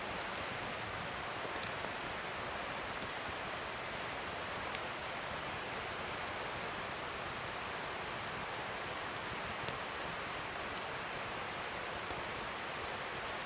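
Wood fire burning: a steady hiss with scattered sharp crackles and pops.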